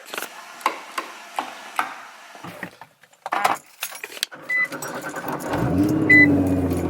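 Clicks and knocks of handling in a car, then a car starts about five seconds in and settles to a steady run. A car's warning chime beeps three times, about a second and a half apart.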